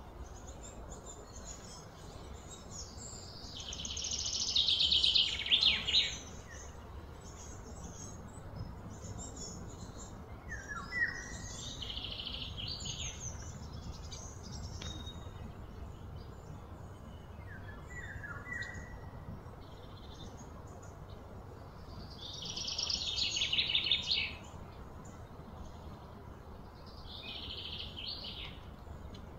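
Wild birds singing and calling in the surrounding trees: two louder, fast trilling songs, one about three seconds in and one a little past twenty seconds, with shorter chirps between, over a faint low background hum.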